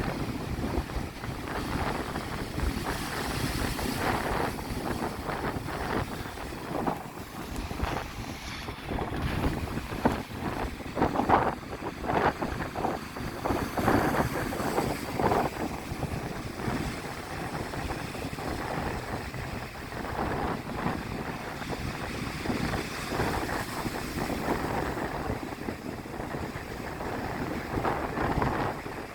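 Strong wind buffeting the microphone in irregular gusts over the rush of sea waves breaking on the shore.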